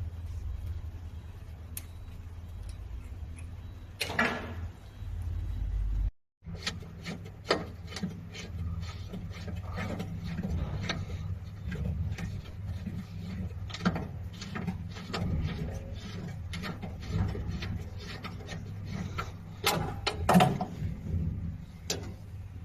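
Scattered clicks, knocks and rubbing of tools and parts being handled while wiring is taken apart, over a steady low hum. The sound cuts out completely for a moment about six seconds in.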